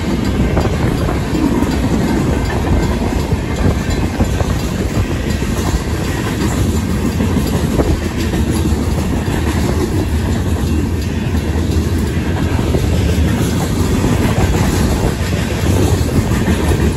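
Freight train cars rolling steadily past at close range, a loud rumble with wheels clacking over the rail joints and crossing, while the crossing's bells keep ringing.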